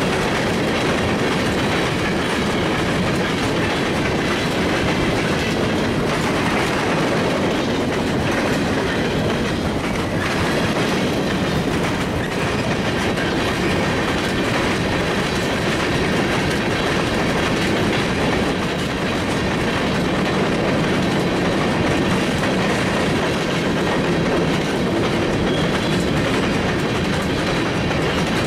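Train rolling past with its cars clattering over the rail joints, a steady loud rumble and rattle that does not let up.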